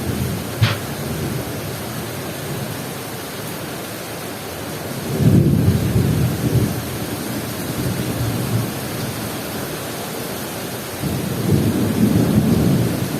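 Heavy rain pouring steadily in a thunderstorm. Low rumbles swell up twice, about five seconds in and again near the end, and there is a single sharp click about half a second in.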